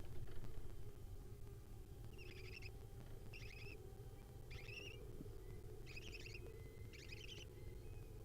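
Barn owl nestlings calling: about five short, rapidly pulsed high calls, roughly one a second, starting about two seconds in, over a steady low hum.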